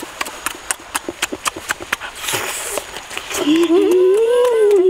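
Rapid wet smacking and chewing clicks, several a second, as roasted duck meat is eaten, then about three and a half seconds in a long drawn-out voice sound that rises and falls in pitch.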